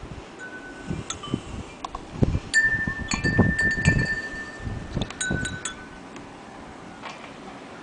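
A weather-battered hanging wind chime tinkling as it is knocked about, with scattered strikes and ringing notes at several pitches, busiest in the middle, then settling after about six seconds. Low rumbles sound beneath the busiest part.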